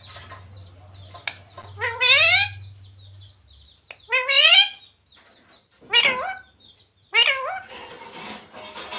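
Parrot calling: four short, loud calls, each sliding down in pitch, about one to two seconds apart.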